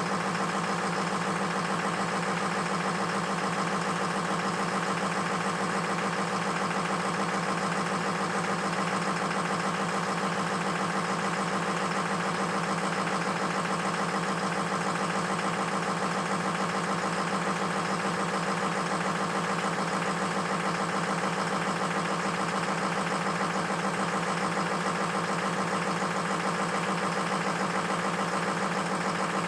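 Ford F-350 truck engine idling steadily while still cold from a cold start, running with two bad injectors.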